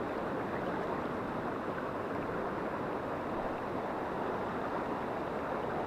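Mountain river flowing: a steady, even sound of running water.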